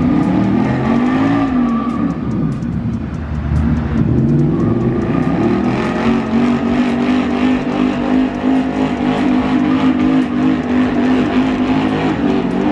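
Car engine revving, its pitch rising and falling twice in the first few seconds, then held at a steady drone.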